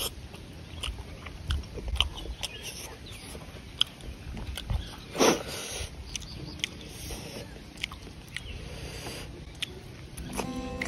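Close-up eating sounds of chicken masala being eaten by hand: wet chewing, biting and lip smacks, with short mouth clicks scattered throughout. Background music comes in just before the end.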